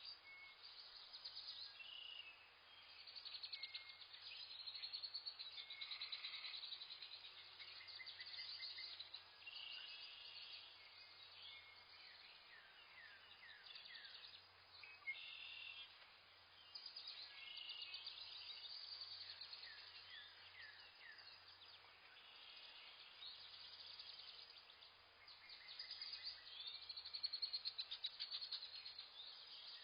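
Faint chorus of small birds chirping and trilling, with quick repeated high notes and short falling whistles overlapping throughout.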